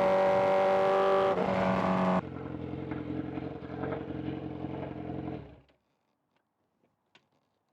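Sport motorcycle engine running at steady high revs with wind rush. About two seconds in it drops abruptly to a quieter, lower running note, which fades out around the middle, leaving near silence.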